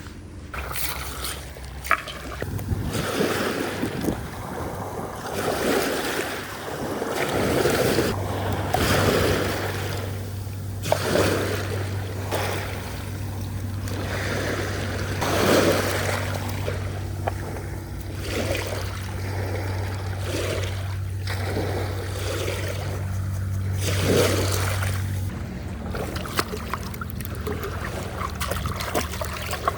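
Sea water sloshing and splashing around a kayak in irregular swashes every second or two, with wind. A steady low hum runs under it through most of the middle.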